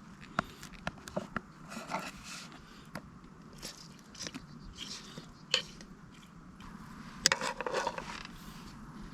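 Scattered light clicks, taps and short scrapes of camp cookware and food being handled, with a louder scraping rustle about seven seconds in.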